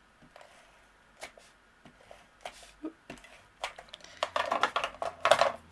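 Handheld adhesive applicator (Fast Fuse) and cardstock being handled: scattered light clicks and taps, then about four seconds in a rapid crackling run lasting about a second and a half, as the adhesive is laid along the paper tabs.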